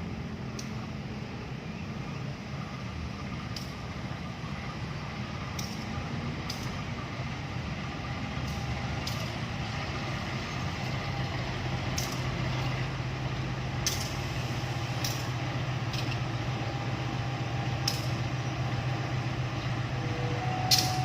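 Heavy diesel engine running steadily, its low hum growing gradually louder through the stretch, with scattered sharp clicks and clanks over it.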